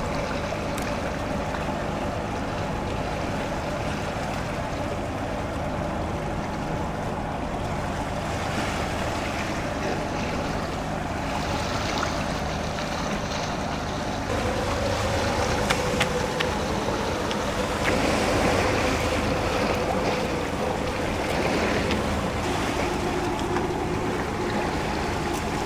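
Boat engine running steadily at sea, with wind and waves washing around it; it gets a little louder about halfway through.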